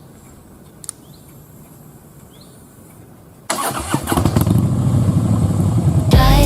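Harley-Davidson motorcycle engine starting suddenly about halfway through and running with a deep, steady note, after a few seconds of quiet outdoor air with faint bird chirps.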